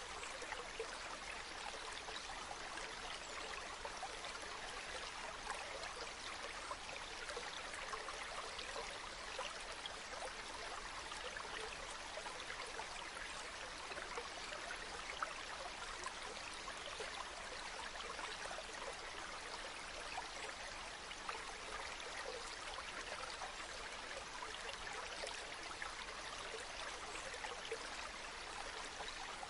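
Waterfall water rushing and splashing steadily, an even wash of noise flecked with small droplet splashes.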